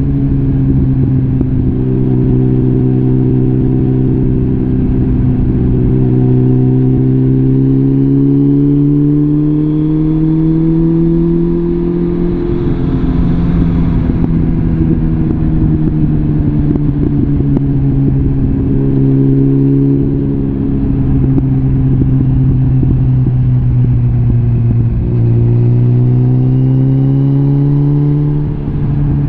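Suzuki GSF650 Bandit's inline-four engine running through a full Arrow exhaust system while riding. Its pitch climbs slowly under steady throttle for about twelve seconds, eases back, then climbs again near the end, with a brief drop just before the end.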